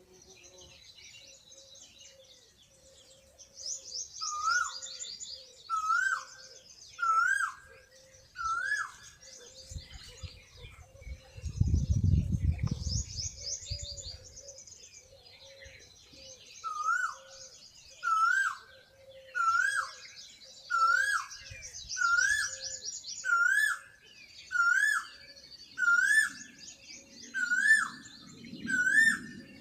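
Birds calling: one bird repeats a short rising-and-falling call about once a second in two long series, over steady high twittering and trilling from smaller birds. A low rumble swells up and fades away about halfway through.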